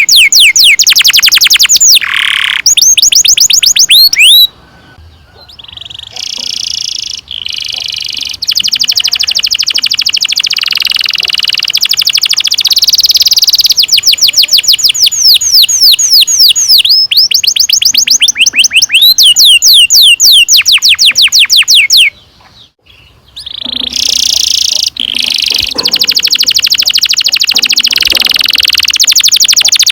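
Domestic canary singing long rolls: rapid trills of quick falling notes repeated several times a second. The song breaks off twice, with a quieter stretch about four seconds in and a short silent gap near the end before it picks up again.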